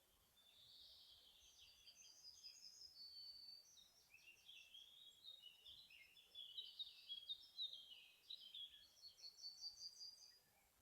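Forest songbirds singing faintly: quick warbling phrases and chirps, with a trill of rapidly repeated high notes near the end; the singing is busiest in the middle.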